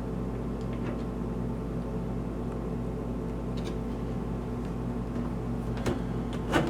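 Steady mechanical hum of a running motor, made up of several even tones over a low rumble, with a few faint clicks and a small knock near the end.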